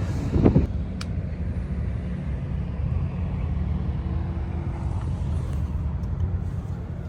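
An engine running steadily with a low, even hum, and a single sharp click about a second in.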